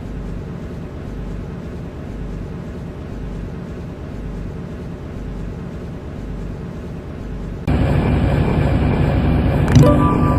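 Interior running noise of an MTR Tseung Kwan O line C-Train: a steady rumble with a pulsing low hum. About eight seconds in it abruptly becomes much louder, with a brief knock just before the end and then a whine falling in pitch.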